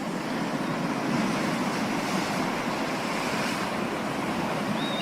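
Sea surf: waves washing in as a steady, even rush of water noise.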